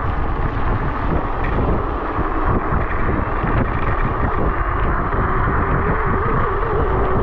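Wind buffeting the microphone of a moving electric scooter, with tyre noise from a wet road. A faint wavering whine comes in about five seconds in.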